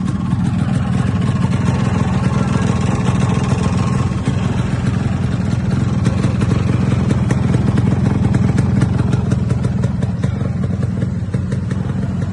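An engine running steadily, with fast ticking over its hum.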